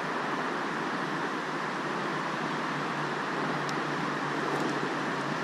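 Steady rushing background noise with no distinct events, and two faint high ticks a little past the middle.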